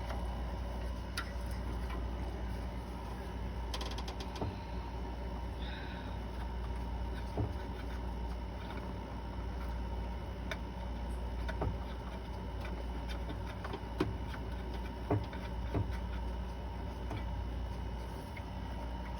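Scattered light clicks and taps of metal parts being handled as lifters are fitted into an engine's cylinder head, over a steady low hum.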